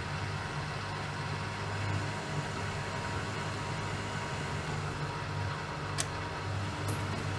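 Bauknecht WAK 5750 G washing machine running, its motor steadily humming and swelling a little every second or two as the drum turns. There is a sharp click about six seconds in.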